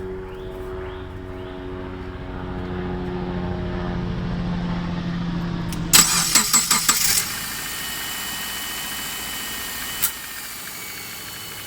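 A low droning hum, then the Subaru engine is cranked and catches about six seconds in with a quick run of loud strokes, settling into a steady idle with a thin high whine and one sharp click near the end. The idling engine has a light knock that the owner takes for piston slap, which fades once the engine is warm.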